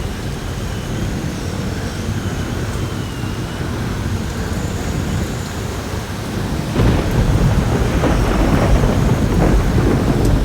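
Heavy rain pours steadily while wind whistles thinly, the whistle wavering in pitch. About two-thirds of the way in, a crack of thunder breaks out into a loud low rumble that carries on.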